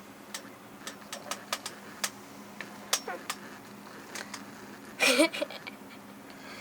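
A blade cutting and scraping a piece of wood, giving a string of sharp, irregular clicks. A brief voice sound comes about five seconds in.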